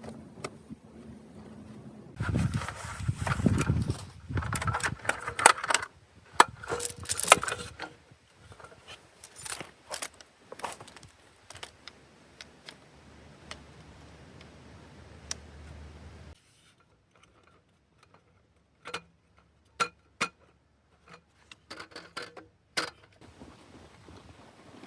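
Irregular metallic clinks, clatter and rustling of objects being handled, loudest in the first third. The background changes abruptly twice.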